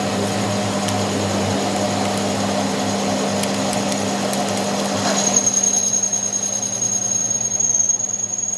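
Metalworking machine tool running with a steady hum. About five seconds in, a high-pitched squeal sets in and holds, with the level wavering.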